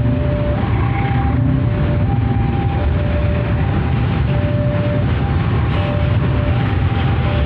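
Container freight train rumbling steadily past as it departs, with an electronic warning tone alternating between two pitches, each held about half a second.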